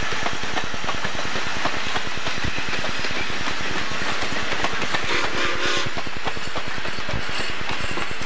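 Passenger cars rolling past close by, their wheels clicking rapidly and steadily over the rail joints, with a short pitched tone about five seconds in.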